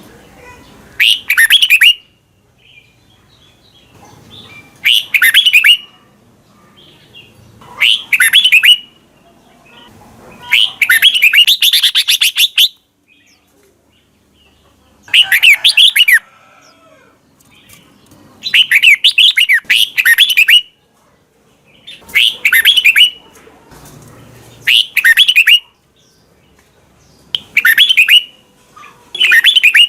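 Red-whiskered bulbul singing about ten short, loud whistled phrases a few seconds apart, each a quick run of notes rising and falling in pitch.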